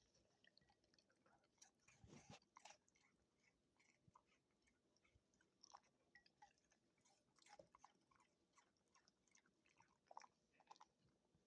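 Faint sound of a dog chewing and crunching treats, an irregular run of small crunches and mouth clicks, busiest about two seconds in and again near the end.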